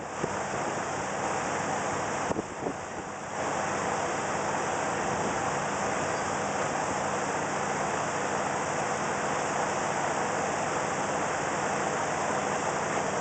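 Ford 361 V8 gasoline engine of a 1975 Ford L-700 truck running steadily while it warms up after a cold start in freezing weather, with a brief dip in sound a couple of seconds in.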